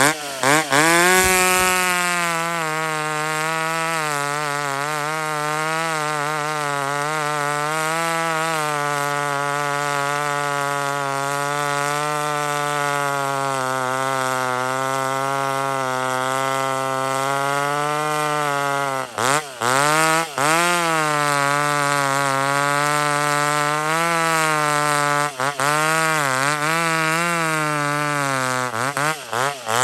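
Two-stroke chainsaw running at high revs after opening up about a second in, with the revs dipping briefly and picking up again several times in the second half as the throttle is let off and squeezed.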